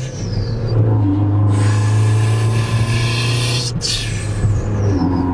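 Chevy Cruze engine pulling hard under acceleration, heard inside the cabin. It breaks off briefly about four seconds in, as for a gear change, with a faint falling whistle after it.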